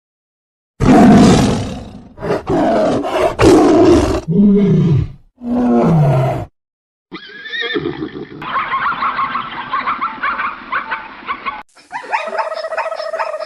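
A run of animal calls from different clips: first several loud, rough calls of a large animal, two of them falling in pitch; then, after a short silence, a different, higher, chattering call, and another short call near the end.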